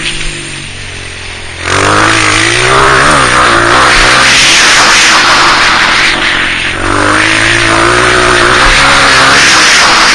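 Honda CRF230F dirt bike's single-cylinder four-stroke engine, quieter off the throttle for the first second and a half, then opened up and revving hard with its pitch rising and falling, easing off briefly about six and a half seconds in before pulling again.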